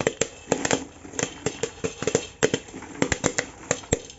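Popcorn kernels popping in a pressure cooker over a high flame: a quick, irregular run of sharp pops.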